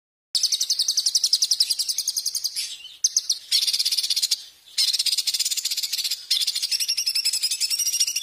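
Songbird recording used as masteran tutor song: a loud, high-pitched trill of very fast repeated notes, given in several runs broken by short pauses.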